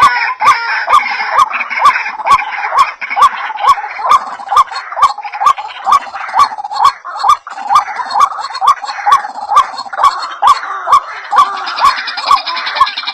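White-breasted waterhen (ruak-ruak) calls played as a bird lure: a short note repeated about three times a second with a sharp click on each, over a dense chorus of overlapping calls.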